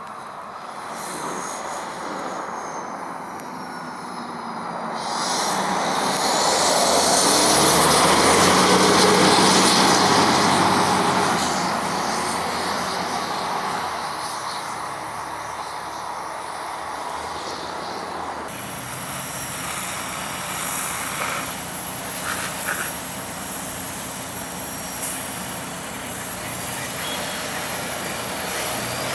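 Emergency vehicle passing close, its engine and tyres loudest about nine seconds in, while a siren wails up and down. About eighteen seconds in, the sound cuts abruptly to a quieter passage with a steady high whine.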